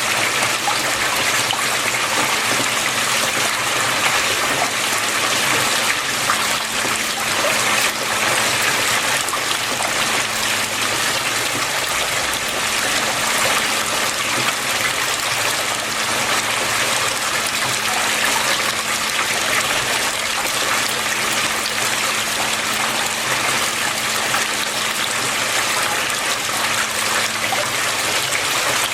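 Water flowing and trickling steadily, with a faint steady low hum underneath.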